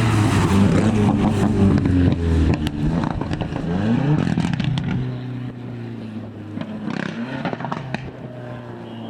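Four-wheel-drive rally car engine at full attack: loud at first, climbing in pitch through the gears around the middle with a few sharp cracks, then fading as the car goes away.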